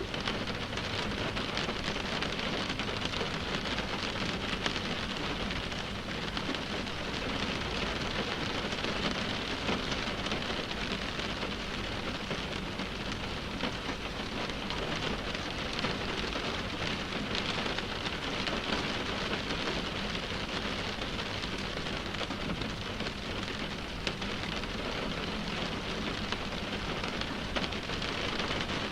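Steady rain drumming on a car's windshield, a dense, even patter of drops.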